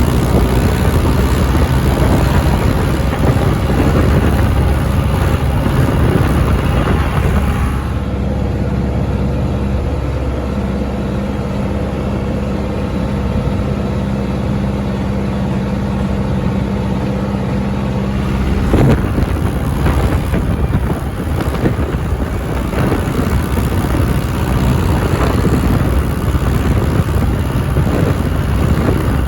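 John Deere tractor engine running steadily on the move. Its note changes about eight seconds in, when a steady hum takes over, and changes again about nineteen seconds in.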